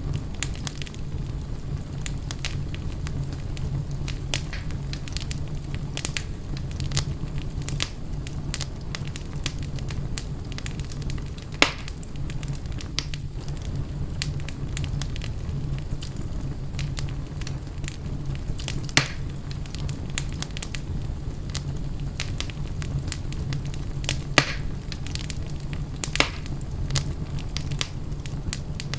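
Fireplace fire crackling steadily over a low, even rumble, with four louder sharp pops spread through it.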